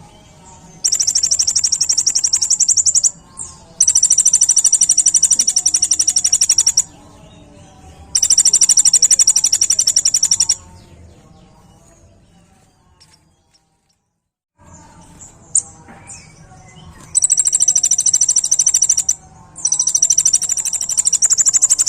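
Kolibri ninja sunbird singing its rapid high-pitched trilling song (the 'tembakan' burst), given in five loud runs of two to three seconds each with short pauses between, and a brief total silence midway.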